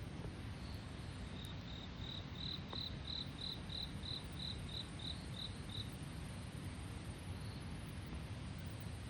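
A cricket chirping: a run of about fourteen short, high chirps, about three a second, that swell and then fade out. Beneath them is a steady low background noise.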